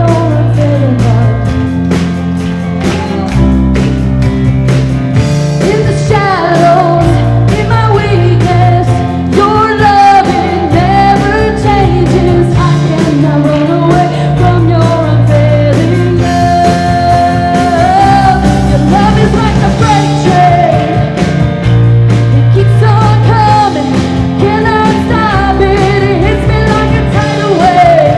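Live worship band playing a rock-style song with guitar, bass and drums under a sung lead vocal.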